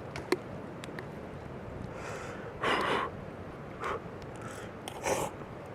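A person eating, with a couple of small clicks near the start and then several short breathy puffs and sniffs, the loudest about halfway through.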